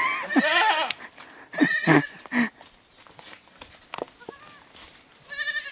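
Goat kids bleating: a few short, quavering bleats, with a pause of a couple of seconds before the last one near the end.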